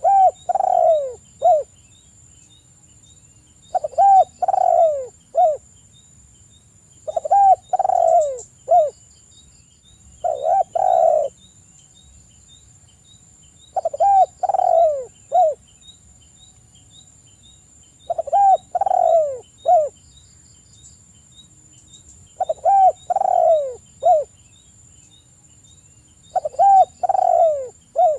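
Spotted dove cooing: a phrase of three or four short coos, repeated about every four seconds, eight times over. A faint steady high-pitched buzz runs underneath.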